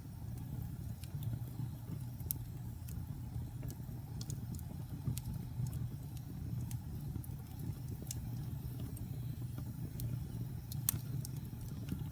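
Wood fire burning in a fireplace: a steady low rumble of the flames with frequent irregular crackles and small pops, one sharper pop near the end.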